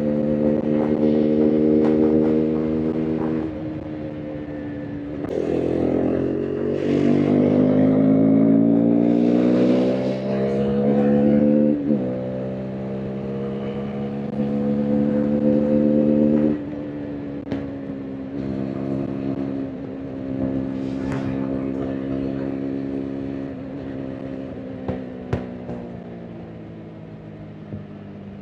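KTM RC 390's single-cylinder engine and exhaust under way. It holds steady revs, eases off, then accelerates with rising revs and a quick drop and recovery about twelve seconds in, as at a gear change. It cruises, then backs off to lower, falling revs in the last third, with a few short sharp cracks near the end.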